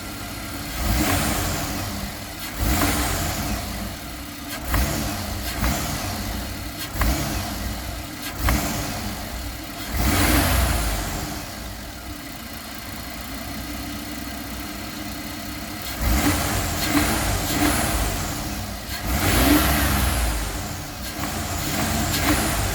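1999 GMC Safari's 4.3 Vortec V6 idling and revved in about a dozen short throttle blips, with a steadier stretch of idle after the middle. A sucking sound comes from the engine, which the owner suspects is an intake or vacuum leak, though none has been found and the engine runs fine with no codes.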